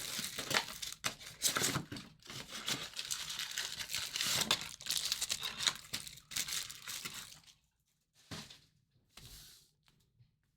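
Trading-card packaging being torn open and crinkled, a dense run of tearing and crackling for about seven seconds, then two short rustles.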